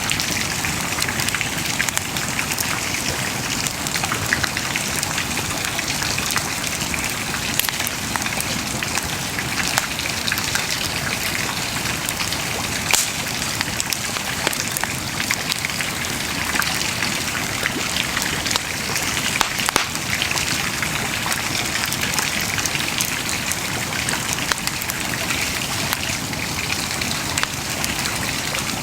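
Wood bonfire burning with a dense, steady crackle and many small pops, a few sharper pops about 13 and 20 seconds in.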